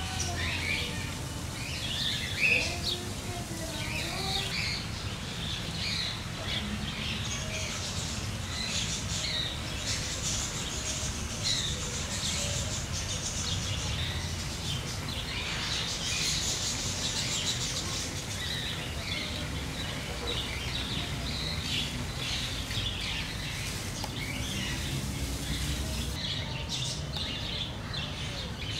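Many small birds chirping and twittering in quick, overlapping calls, over a low steady rumble.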